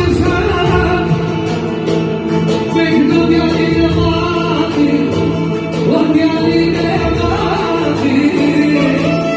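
Live singing with instrumental accompaniment: a sung melody over a sustained low tone, running without a break.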